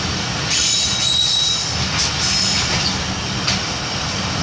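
Passenger train running on the rails: steady low rumble of the wheels with a hissing swell about half a second in and a brief thin high squeal of the wheels about a second in.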